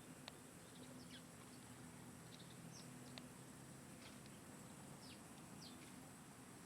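Faint bird chirps: short, high, downward-sliding calls scattered through, over a low steady hum, with two sharp clicks, about a third of a second in and about three seconds in.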